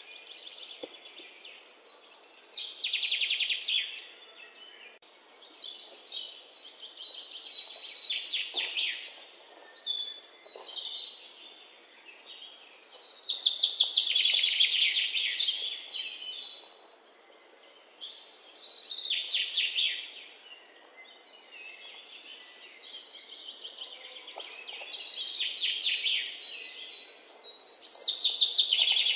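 Birds singing in repeated phrases of rapid trilled chirps, each a second or two long, coming every few seconds.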